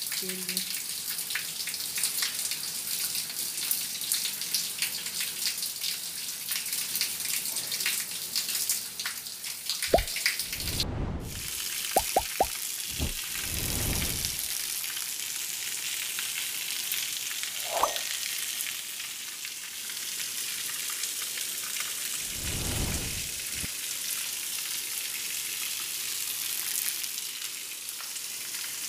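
Steady rain at night, a dense hiss of drops on roofs and pavement. A few low muffled rumbles come around the middle.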